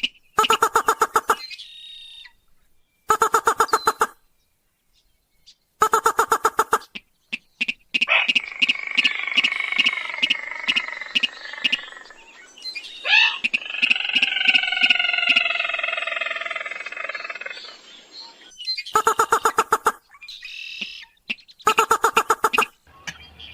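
Recorded calls of a sintar rail (mandar padi) used as a hunting lure. Short bursts of rapid harsh pulses about a second long repeat with silent gaps. A longer chattering passage fills the middle.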